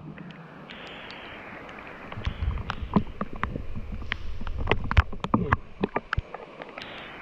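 Irregular knocks and bumps on a fishing kayak, clustered from about two to six and a half seconds in, over a steady hiss.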